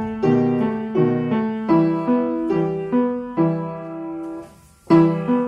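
Piano accompaniment for a ballet barre battement tendu exercise: chords struck in a steady rhythm about two a second. About four seconds in, a longer chord is held and fades out, and the playing starts again just before the end.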